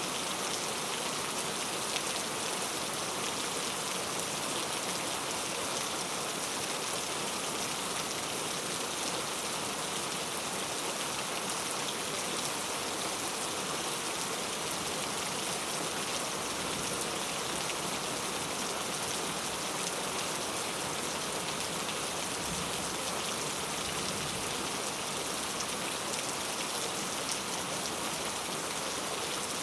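Heavy rain falling steadily, an even hiss of drops that does not let up.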